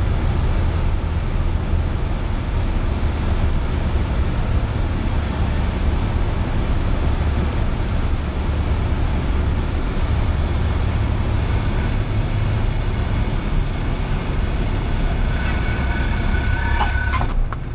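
Cessna 172R's four-cylinder Lycoming engine and propeller droning steadily in cruise flight, heard from inside the cabin. Near the end, a short faint tone and a click cut in briefly.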